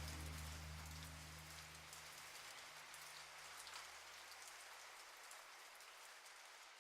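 Soft rain patter with scattered drop ticks, fading out slowly. Low held notes die away in the first few seconds.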